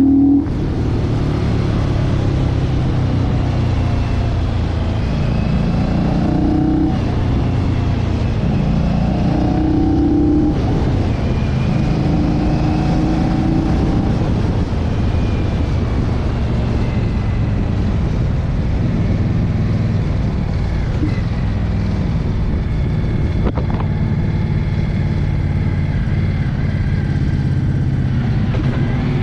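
Motorcycle engine running under way, its note shifting up and down in pitch several times, over steady wind and road noise.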